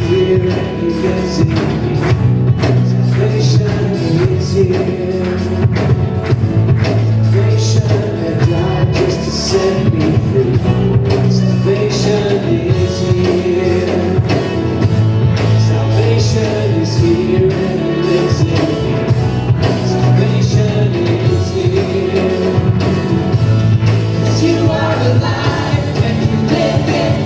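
Worship band playing a song with sung vocals, a steady beat of drums and a strong bass line.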